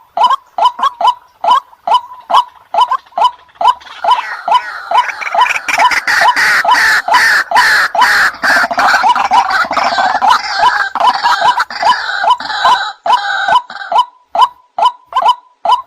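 White-breasted waterhen (ruak-ruak) calls from a lure recording: a steady series of short, repeated notes, about three a second. From about four seconds in until near the end, a denser, harsher chorus of overlapping calls rises over the series, then the plain repeated notes return.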